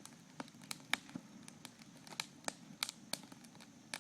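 Campfire wood crackling: about ten sharp, irregular pops and snaps over a steady low rush of the burning fire.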